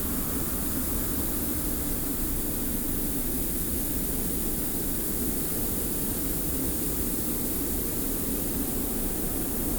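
Steady desert wind with the fine hiss of blowing sand: a low rumble under a high, even hiss, with no gusts or breaks.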